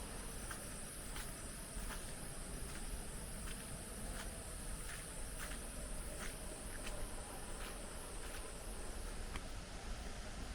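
Insects keeping up a steady high buzz, with faint short ticks about every three-quarters of a second.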